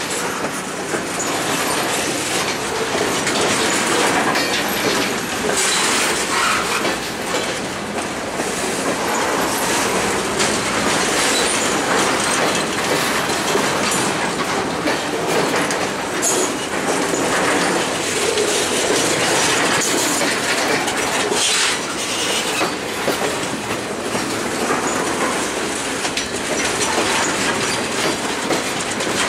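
Freight train flatcars rolling steadily past: a continuous rattle and rumble of steel wheels on rail, with clicks as the wheels cross rail joints.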